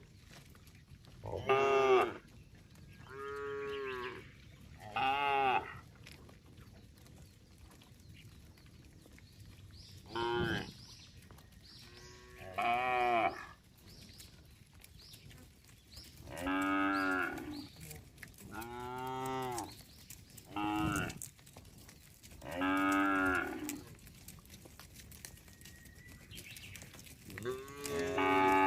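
A herd of cattle mooing: about ten separate moos, each lasting around a second, coming at irregular gaps.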